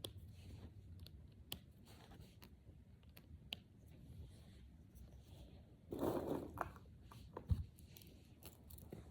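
Small plastic brain-flake pieces being handled and pushed together: scattered light clicks, a short rustling, crinkly stretch about six seconds in, and one dull thump a moment later.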